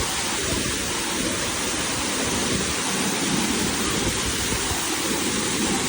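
Waterfall's rushing water: a steady, loud roar of falling water.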